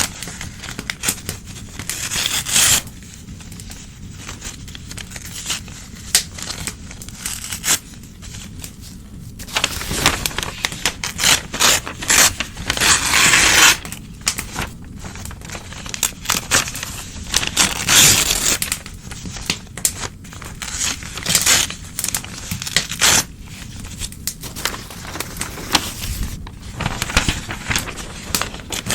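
Old newspaper being torn and crumpled by hand in irregular rips and rustles, with quieter pauses between them and the loudest tears in the middle stretch.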